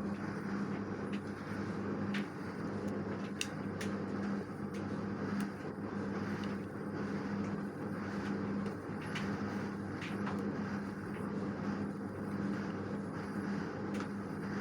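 LG direct-drive washing machine running, with a steady hum that breaks off briefly every couple of seconds and occasional light clicks.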